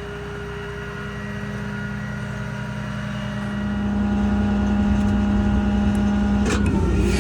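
Ram 5500's Cummins diesel and its running equipment making a steady hum with a whine over it, growing louder about four seconds in. A brief hiss comes near the end.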